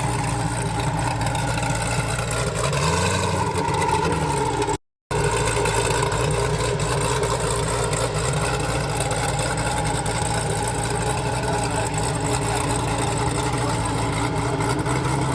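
Supercar engines idling steadily, with one brief rev that rises and falls about three seconds in. The sound cuts out for a moment about five seconds in, then the idling goes on.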